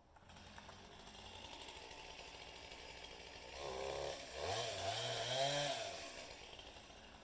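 Stihl MS 200T two-stroke top-handle chainsaw running, revved up and down between about three and a half and six seconds in, its pitch rising and falling. It is loudest during the revving and dies away near the end.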